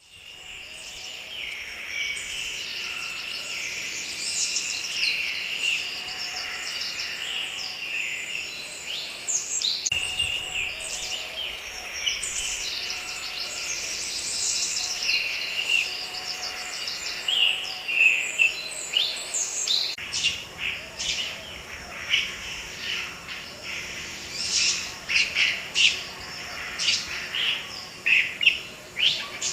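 Black-naped oriole calling: a busy stream of chirps and whistles, which turns into sharper, more spaced-out calls for the last third.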